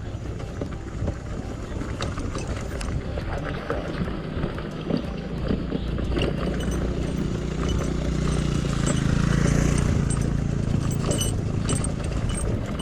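Honda XR150L single-cylinder motorcycle engine running under way downhill, growing louder about two-thirds of the way through, with scattered knocks and rattles throughout.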